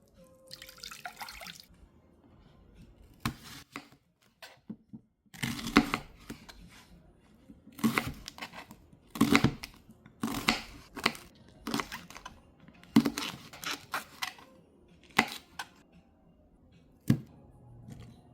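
A run of about a dozen short, sharp tearing and knocking noises at irregular intervals, with quiet gaps between them.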